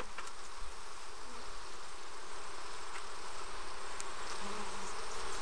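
Honeybee colony buzzing steadily around an opened hive, a dense, even hum of many bees.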